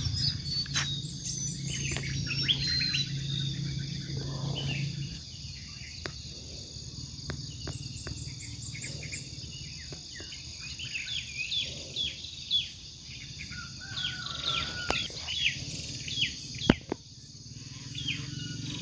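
Many birds chirping with short repeated calls over a steady high insect buzz. A low hum runs through the first five seconds, and a few sharp clicks are heard.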